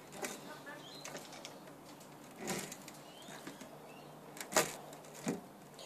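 A few scattered light knocks and clicks from pressing rubber spline into the channel of a window screen frame to hold pet mesh, the sharpest one about four and a half seconds in.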